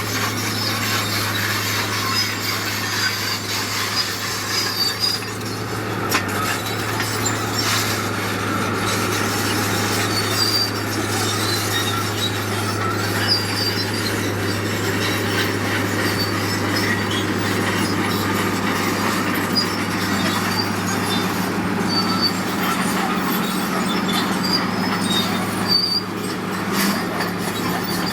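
Bulldozer's diesel engine running steadily under load, with its steel crawler tracks giving many short, high squeaks as it works.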